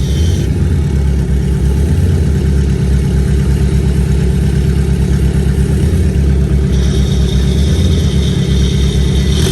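Car engine idling loud and close, a steady pulsing low rumble with no revving.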